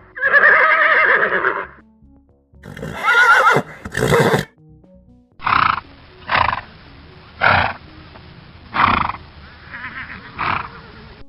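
Horse whinnying: a long call with a wavering pitch, two shorter calls, then a run of six short calls about a second apart.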